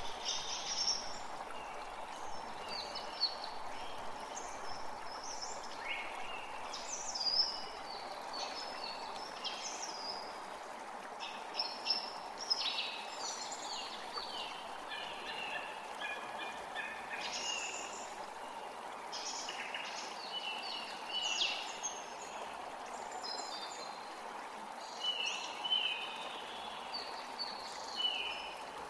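A forest creek running steadily, with several songbirds singing and calling in short, varied chirps and trills over it.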